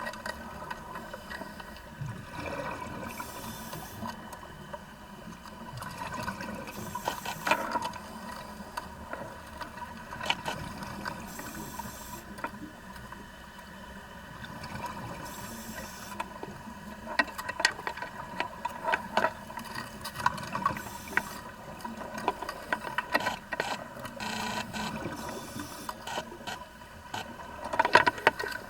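Vacuum pump for sea urchin harvesting running with a steady hum, over water noise and irregular sharp clicks and clatter that come thicker in the second half and just before the end.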